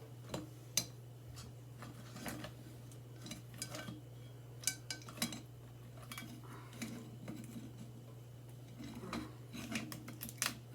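Irregular clicks, knocks and clinks of kitchen utensils and dishes being handled during food prep, over a steady low hum.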